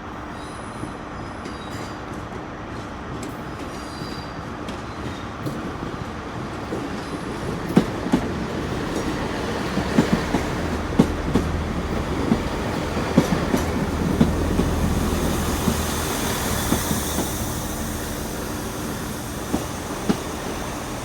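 Class 166 Turbo diesel multiple unit running into the platform, its engine hum and wheel noise building to a peak about two thirds of the way through and then easing as it slows. The wheels click repeatedly over the rail joints, and a high squeal comes in near the peak.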